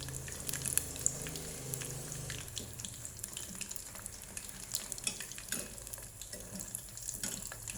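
Battered shrimp deep-frying in oil, a steady sizzle with many small crackles and pops.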